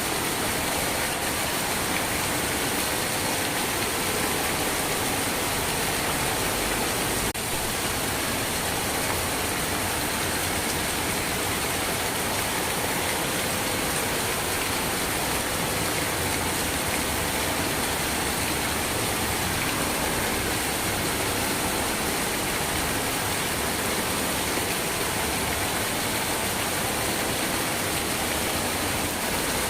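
Steady heavy rain: an even, unbroken rush of falling water.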